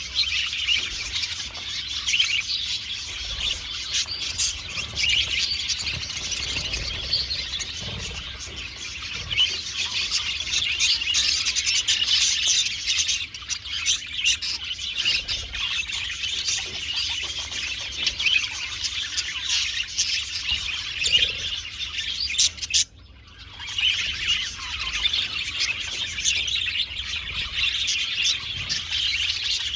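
A flock of budgerigars chattering, a dense continuous mix of warbles and short chirps. It drops out for a moment about three quarters of the way through, then carries on.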